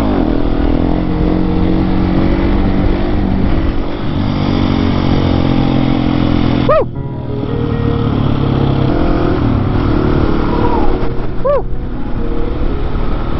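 Husqvarna 701 supermoto's big single-cylinder engine running under way, its note shifting a few times with the throttle and dipping briefly about seven seconds in, over wind noise.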